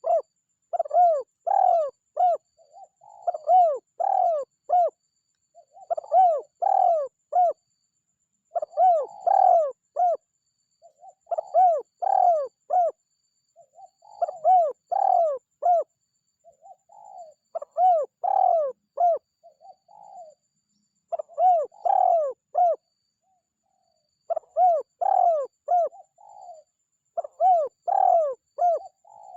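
Spotted dove cooing loudly and repeatedly. Each phrase is a run of several short arched coos, and phrases come about every two to three seconds, with a brief pause about three quarters of the way through.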